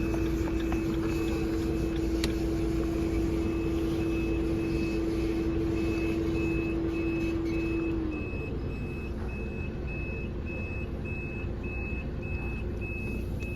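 Truck reversing alarm beeping evenly, nearly two short beeps a second, over the truck's engine running with a steady hum and low rumble. About eight seconds in, the engine's hum drops in pitch and the sound gets quieter.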